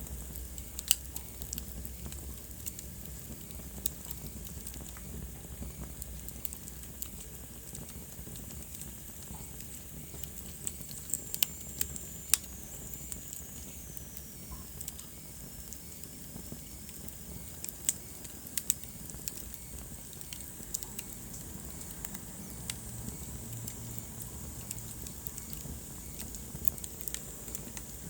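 Wood fire burning in a fireplace: a steady low rumble and hiss with frequent crackles and occasional sharper pops. A faint high whistle slides down in pitch around the middle.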